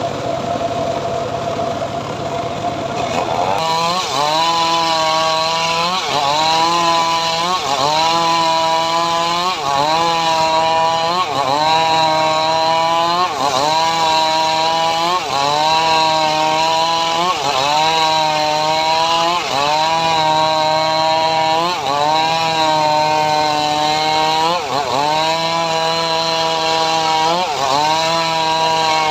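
Homemade sawmill rig cutting sengon wood. About three and a half seconds in it settles into a loud, steady whine whose pitch dips and recovers roughly once a second as the saw takes load in the cut.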